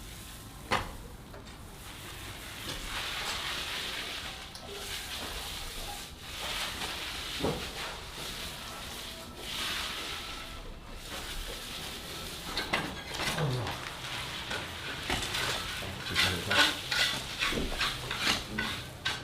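Food sizzling in a pan while being stirred: a steady frying hiss that swells and fades, with a sharp click about a second in and more frequent clinks and knocks of utensils on the pan in the last few seconds.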